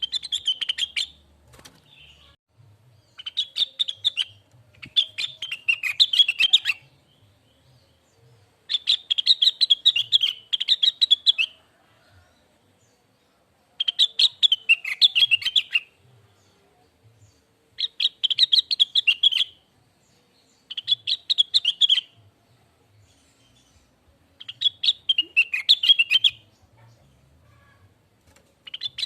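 Cucak wilis (rengganis) songbird singing in short phrases of rapid, warbling chirps, one burst every few seconds with brief pauses in between.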